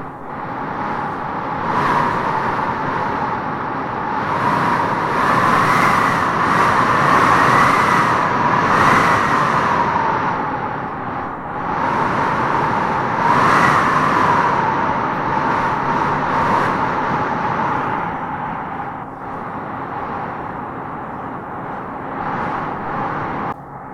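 Wind howling in gusts through trees: a steady rush with a whistling howl that rises and falls, swelling strongest from about five to ten seconds in and again around thirteen seconds.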